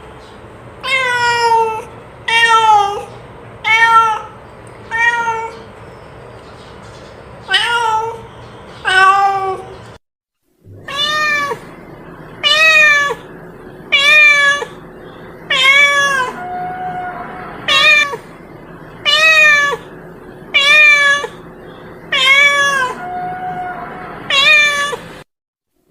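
Domestic cat meowing over and over, about one meow every second and a half, each call bending in pitch. There is a short break of silence about ten seconds in, then the meowing resumes.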